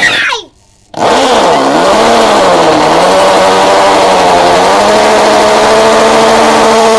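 Black+Decker TB555 hammer drill's motor running. A brief burst winds down and stops half a second in. About a second in the motor starts again, its speed dipping and rising for a couple of seconds before it settles to a steady whine.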